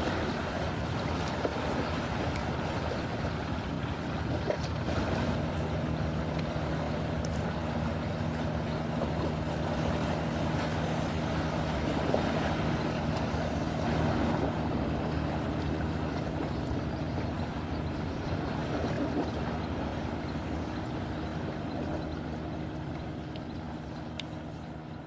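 Waves and wind on a shore, with wind buffeting the microphone. A steady low hum, like a distant engine, joins about five seconds in. It all slowly fades toward the end.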